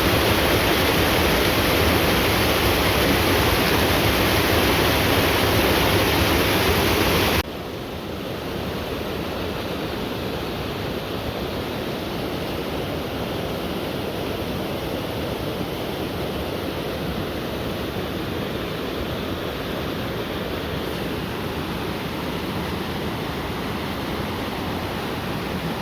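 Waterfall's steady rush of water, loud for about the first seven seconds, then dropping abruptly to a softer, even rush.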